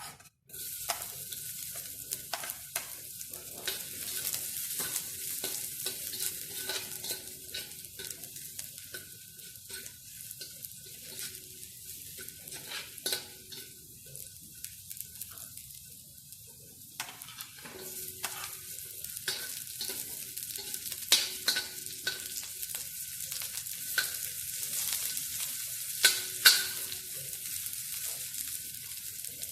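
Food sizzling as it fries in a pan, stirred with a utensil that clicks and scrapes against the pan, with a few sharper knocks.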